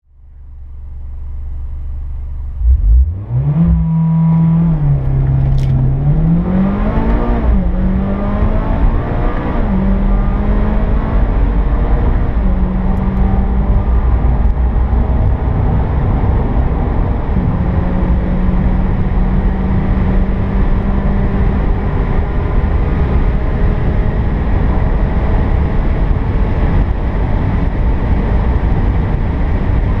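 Mitsubishi Lancer Evo X MR's turbocharged 2.0-litre four-cylinder launched hard at full throttle about three seconds in, its pitch climbing and dropping back at each of several quick upshifts, then rising ever more slowly through the long upper gears toward 200 km/h under loud road and wind noise.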